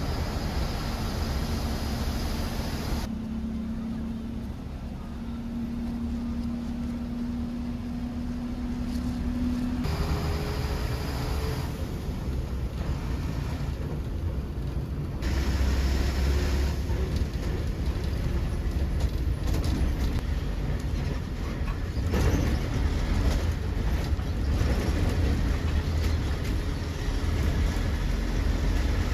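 KSRTC bus engine running and road noise heard from inside the moving bus, in several spliced clips that change abruptly about 3, 10 and 15 seconds in, with a faint steady whine in one of them.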